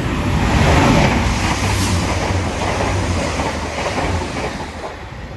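Two coupled Class 185 diesel multiple units passing through the station: a loud rush of train noise over a low engine hum, loudest about a second in and then slowly fading.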